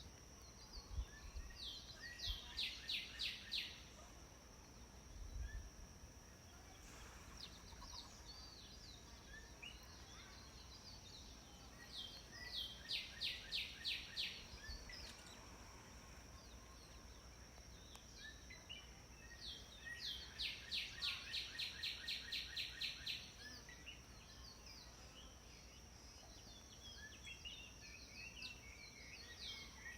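House sparrows calling: four bursts of fast, evenly repeated chirps, each about two to three seconds long, over a steady high-pitched whine.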